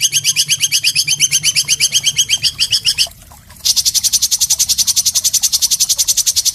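A songbird's harsh, rapid rattling trill of short upswept notes, about ten a second, played as a training recording for songbirds. It breaks off briefly about three seconds in, then resumes as a denser, buzzier trill.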